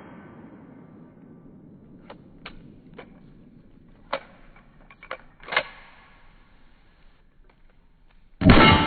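Loud single pistol shot near the end, with scattered light clicks and knocks before it.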